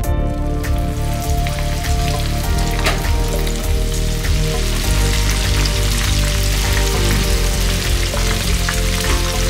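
Flour-coated chicken pieces deep-frying in a pan of hot oil: a steady, dense crackling sizzle that starts just after the beginning.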